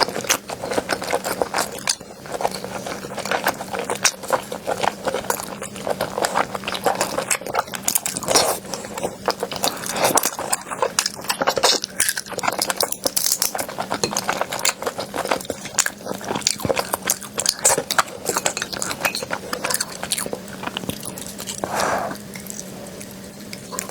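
Close-miked crunching and chewing of a crunchy food, a fast, irregular run of crackles and crisp bites that keeps going without a break.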